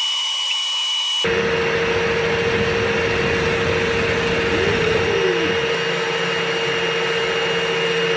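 Dryer vent cleaning equipment running steadily: a drill spinning a rotary brush through the duct while a vacuum pulls out lint. It gives a loud whir with a thin high whine. About a second in, the sound changes abruptly and a lower steady hum comes in.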